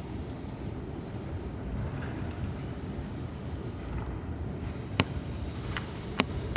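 Steady low rumble of an Airbus A350-900's cabin while taxiing after landing. Two sharp clicks come about five and six seconds in.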